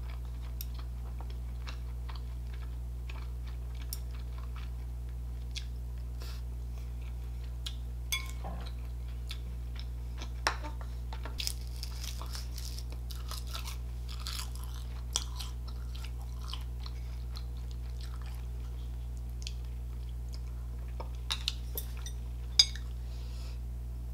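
Close-miked mouth sounds of eating braised tofu and rice: chewing with crisp crunching, among scattered light clicks of chopsticks and a metal spoon against a wooden bowl, the sharpest click near the end. A steady low hum runs underneath.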